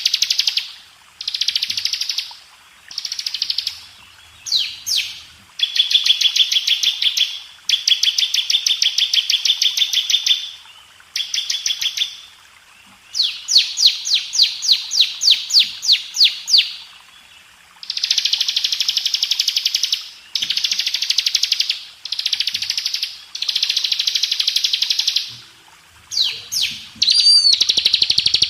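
Bar-winged prinia (ciblek) singing: repeated bursts of fast, high trills, each a second or two long with short pauses between. In the middle, one phrase is a run of separate rising notes, about four a second.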